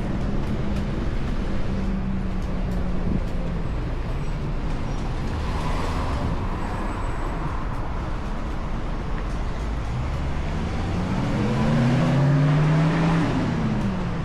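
Street traffic: a steady hum of passing cars, with one vehicle's engine growing louder near the end, its pitch rising and then falling as it goes by.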